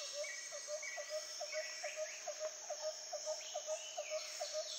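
Rainforest insect and bird chorus: a steady high insect buzz, a rapid run of short low notes repeated about five times a second, and scattered chirps.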